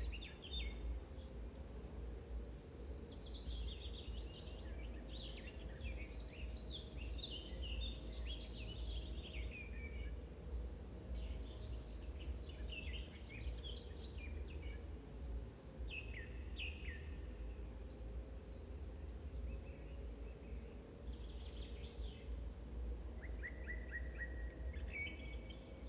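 Birds chirping in short runs of high calls, densest early on and again near the end, over a steady low hum.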